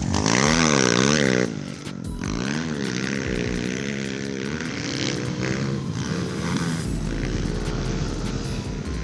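Pit bike engines revving, the pitch climbing and falling quickly over and over; loudest in the first second and a half.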